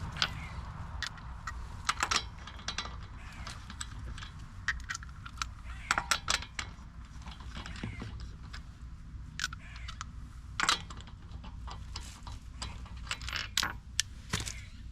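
Lug nuts being fitted and spun onto wheel studs by hand: irregular metallic clicks and clinks over a steady low rumble.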